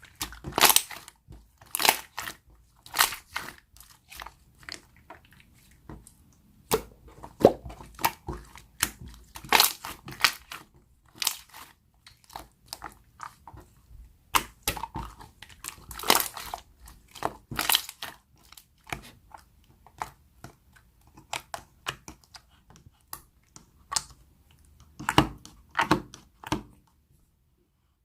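Slime being squeezed and poked by hand, giving irregular sharp clicks and pops of trapped air, with bursts of quicker crackling; it stops shortly before the end.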